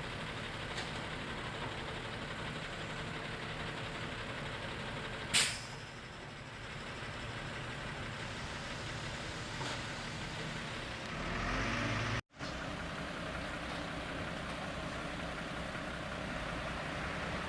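An engine running steadily, with a short sharp hiss about five seconds in and a swell of louder noise shortly before a brief break in the sound about twelve seconds in.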